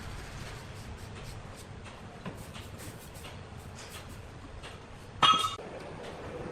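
Low steady machinery hum with faint scattered ticks, then a short, loud metallic clank that rings briefly about five seconds in.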